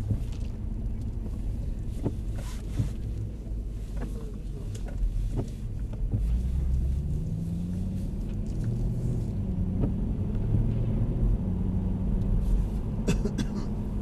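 Mercedes-Benz SL63 AMG's 6.3-litre V8 heard from inside the cabin as a steady low rumble while the car is gently accelerated, its note rising in pitch around the middle, with a few light clicks.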